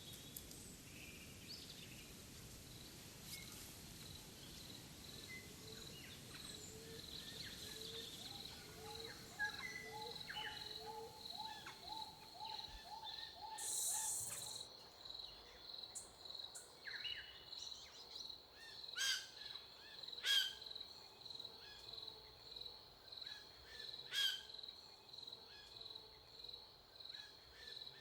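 Faint countryside ambience: assorted birds calling, over a high, steady chirp repeating about three times a second.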